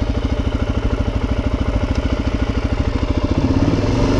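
Suzuki DRZ400's single-cylinder four-stroke engine idling steadily with an even, quick thump of firing pulses, swelling slightly near the end.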